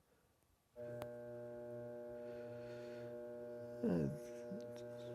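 Electric pottery wheel switched on, its motor humming steadily from under a second in. About three seconds later there is a brief, louder falling sound.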